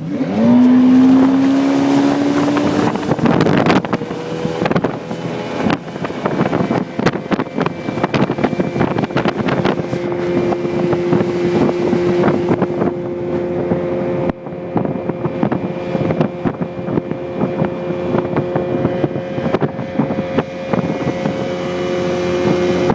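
Small speedboat's 85 hp motor opening up, its pitch rising over the first few seconds, then running steadily at speed. Frequent short knocks and wind noise run under it.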